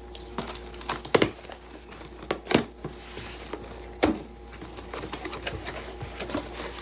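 Packaging rustling and crinkling as gaming chair parts are handled and lifted out of their box, with a few sharp knocks of parts bumping against each other or the carton.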